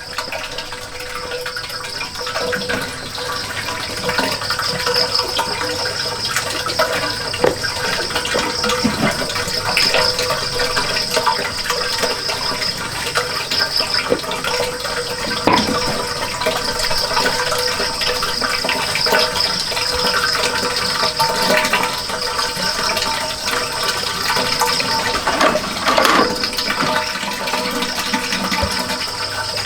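Steady rush of running water, with occasional short splashes and knocks.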